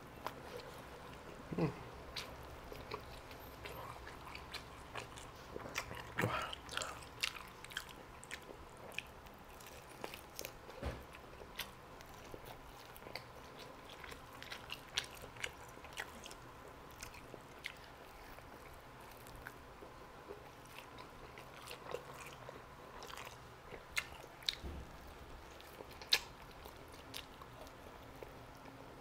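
Chewing and biting into Hawaiian-style roast chicken drumsticks: many short, irregular mouth clicks and smacks, with a few sharper bites.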